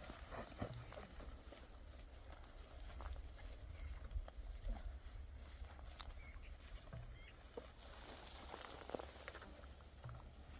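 Field ambience: a cricket chirping in a fast, even trill, over a low rumble of wind on the microphone, with faint scattered rustles and clicks.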